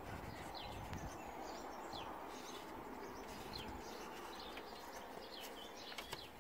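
Small birds chirping, short high calls repeated every second or so over a faint steady outdoor background, with a couple of light clicks near the end.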